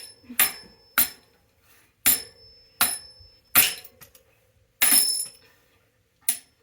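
A hammer striking a metal bicycle part: about eight sharp blows at uneven intervals, several leaving a brief metallic ring.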